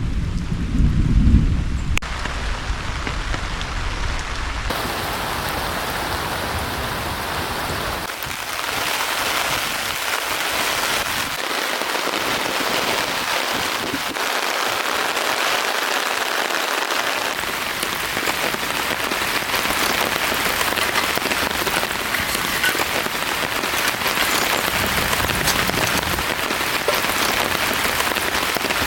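Heavy rain pouring down steadily, thickening into a dense downpour about eight seconds in. A low rumble of wind or distant thunder is heard in the first few seconds.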